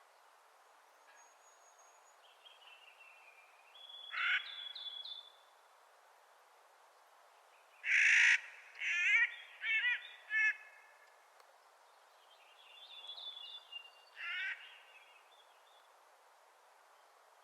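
Clark's nutcracker giving harsh, grating calls: one about four seconds in, a loud one about halfway, three shorter ones quickly after it, and another near the end. Fainter thin chirping notes come in between.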